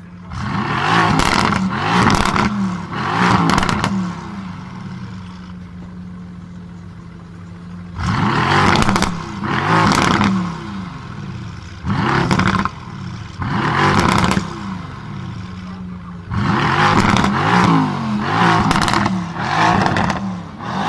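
Mercedes-AMG GT S's twin-turbo 4.0-litre V8 through an ASG exhaust, idling and then revved hard in three bursts of several quick revs each. It drops back to a steady idle between the bursts.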